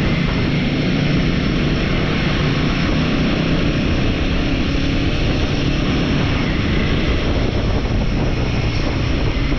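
Royal Enfield motorcycle engine running steadily while riding, mixed with a constant rush of wind and road noise on the rider's camera microphone.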